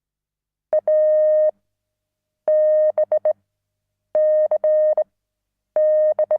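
Morse code sent as a steady beeping tone, in four letter groups of long and short beeps about 1.7 s apart; the groups read A, B, C, D.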